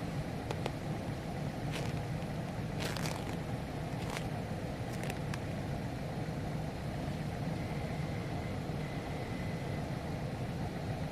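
Steady low engine rumble, even throughout, with a few faint clicks.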